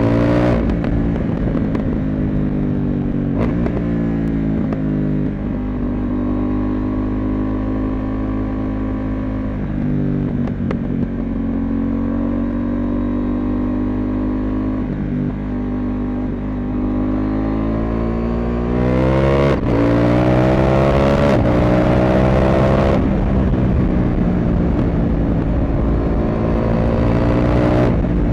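CFMOTO 800MT parallel-twin motorcycle engine pulling through the gears on the road: the revs climb, then drop sharply at each gear change, several times. From about two-thirds in it grows louder as the revs rise again.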